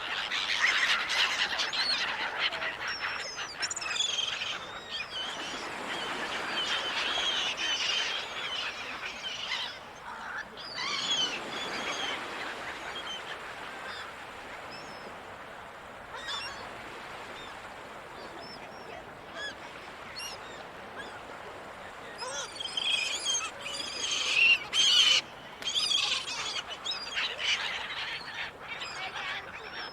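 Gulls calling over the sea: bursts of high, squealing cries, busiest in the first several seconds and again late on, over waves washing in and receding.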